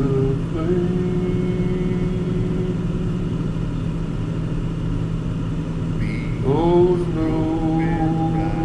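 Car cabin sound while driving: a steady engine and road hum, with a pitched tone that rises sharply about six and a half seconds in and then holds.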